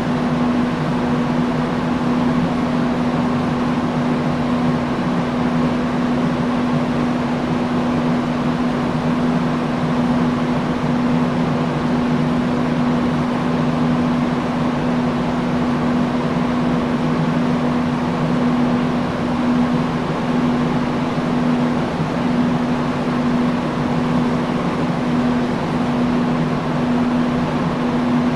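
Industrial fan running steadily: an even rush of air over a strong low hum held on one pitch.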